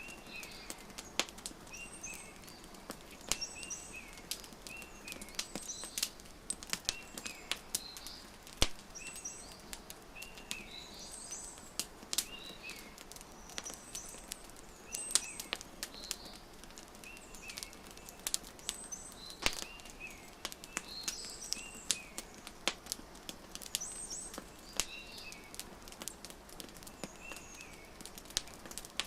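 Wood fire crackling, with irregular sharp pops, a few of them much louder, over a soft hiss. Small birds chirp in short repeated calls about every second behind it.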